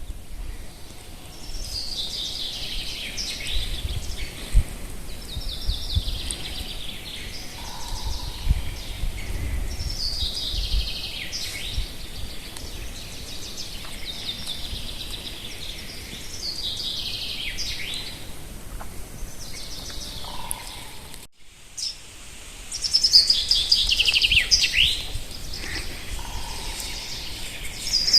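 Spring songbird singing in the taiga: one song every few seconds, each a quick run of notes falling in pitch over about two seconds. A low rumble of wind on the microphone lies underneath, and the sound cuts out briefly about two-thirds of the way through.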